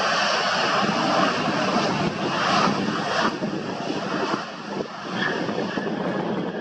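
Jet aircraft engines: a loud, steady rushing noise that eases somewhat about two-thirds of the way through.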